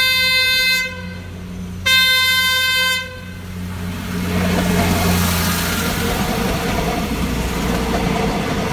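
PNR diesel multiple unit sounding two horn blasts about a second long each, then passing close by with its diesel engines humming and its wheels running on the rails.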